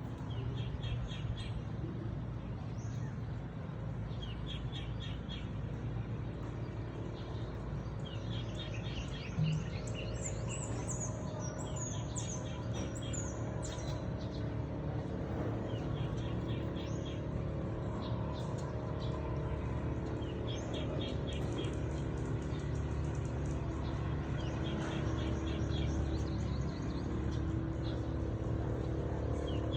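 Birds chirping: one bird repeats a short, rapid trill every few seconds while others give higher chirps in between, over a steady low rumble.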